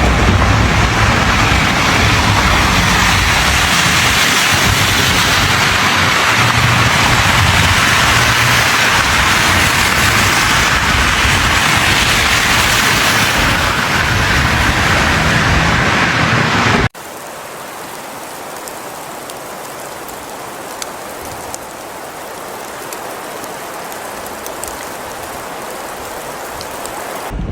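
Steady rushing noise of a winter storm, wind and driving precipitation, with low rumble. About two-thirds of the way through it cuts abruptly to a quieter, similar hiss with faint ticks.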